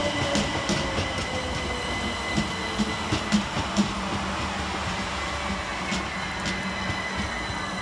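Southern Class 387 electric multiple unit slowing into the platform: its motor whine falls in pitch over the first few seconds while the wheels click irregularly over the rail joints, under a steady high whistle.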